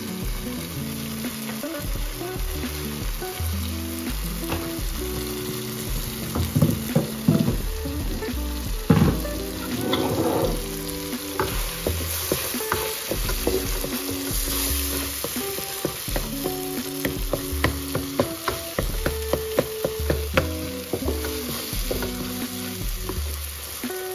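Eggs and tomato masala sizzling in a frying pan while a spoon stirs them gently, with scattered clicks and scrapes of the spoon against the pan. Background music with held notes plays underneath.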